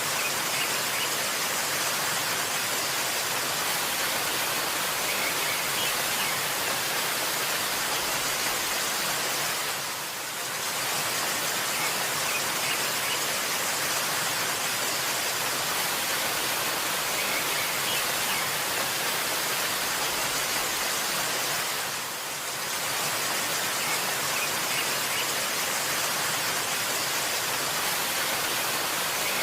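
Waterfall rushing as a steady, dense hiss, with a few faint high bird chirps now and then. The sound briefly drops a little about ten seconds in and again about twenty-two seconds in.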